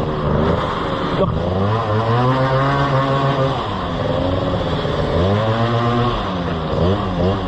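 Motorcycle engine revved hard while riding, its pitch climbing and dropping several times as it runs up through the revs and shifts, with a few quick rises and falls near the end.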